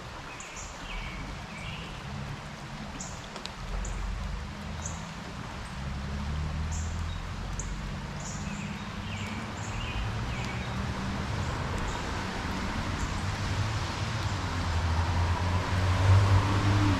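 Road traffic passing in the background, a low rumble that swells and is loudest near the end. Short bird chirps come through over it.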